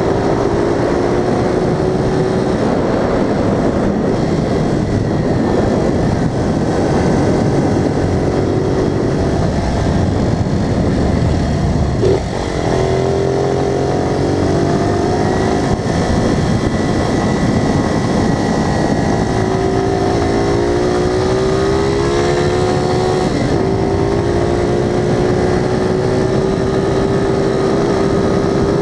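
Vehicle engine pulling through a run of bends, its pitch rising and falling with the revs over a steady rush of road and wind noise. There is a short break about twelve seconds in and another near the end, like gear changes.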